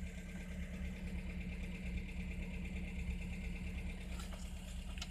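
GAZ-21 Volga's freshly rebuilt four-cylinder engine idling steadily.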